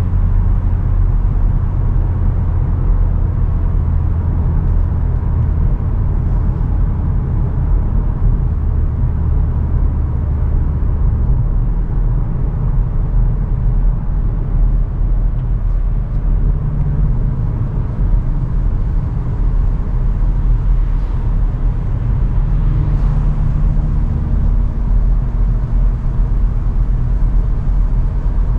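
Cupra Ateca at Autobahn speed, heard onboard: a steady low engine drone over road and tyre noise, the engine note shifting a few times.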